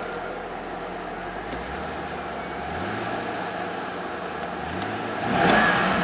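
2002 Chevrolet Corvette C5's 5.7-litre V8 idling and revved twice: a mild rise about two seconds in, then a louder rev about five seconds in that falls back toward idle.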